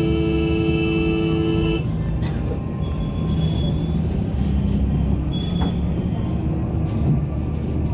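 Steady rumble of a moving vehicle in traffic, with a two-note horn held for about the first two seconds. Two short, high beeps come later.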